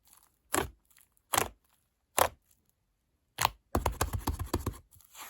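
Slime being pressed and stretched by hand, giving separate sharp pops about once a second, then a quick run of crackling pops near the end.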